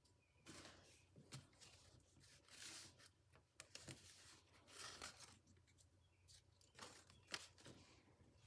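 Paper rustling and crinkling as an origami model is folded and creased by hand, in short bursts with a few sharp crisp snaps.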